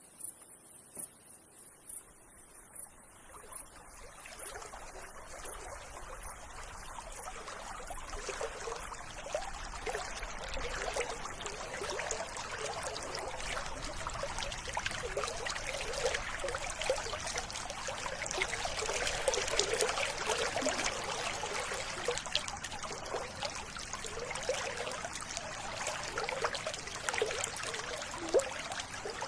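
River water trickling and gurgling, fading in over the first few seconds and then running steadily. At the start a high, rapidly pulsing trill fades out.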